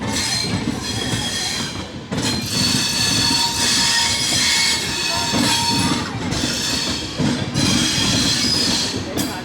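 Hamsafar Express passenger train running past at close range: a steady rumble of wheels and coaches on the track, with high wheel squeal over it.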